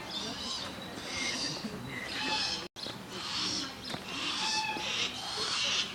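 Young bird of prey giving harsh, hoarse begging screeches, about one a second: a year-old bird calling to be fed. The sound cuts out for an instant a little under halfway through.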